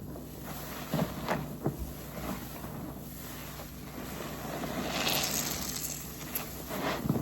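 Wet squelches and crackles from a soapy waffle car-wash sponge being squeezed and wrung, with a longer swell of wet hissing about five seconds in.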